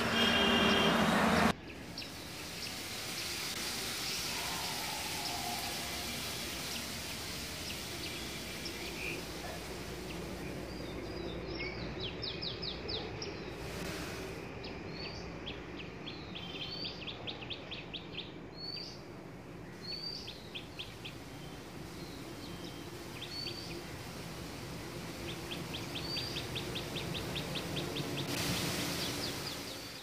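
Small birds chirping: short, high upswept chirps and rapid ticking series of notes, repeated over a steady outdoor background hiss. A brief louder passage with steady tones cuts off abruptly about a second and a half in.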